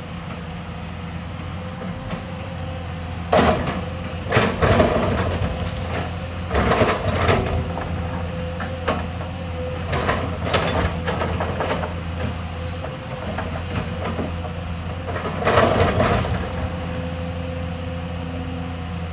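Hyundai hydraulic excavator's diesel engine running steadily, with several loud clanks and scrapes from the machine and its bucket working rock and soil.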